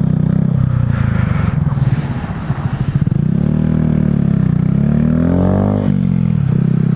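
2015 KTM 690's single-cylinder engine running under the rider, its revs rising and falling several times in the second half, then dropping to a steady lower note near the end. A hiss sits over it for a couple of seconds about a second in.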